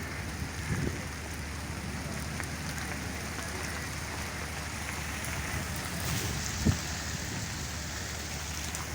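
Steady rain falling, with two dull low thumps, the louder one about two-thirds of the way through.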